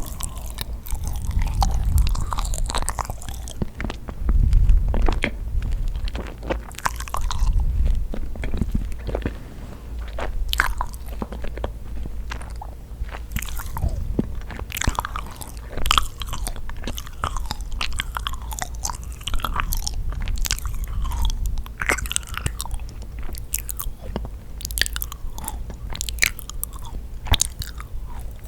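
Close-miked chewing and biting of yakgwa, Korean honey-fried cookies: sticky, chewy mouth sounds made of many small clicks and smacks, with some light crunching.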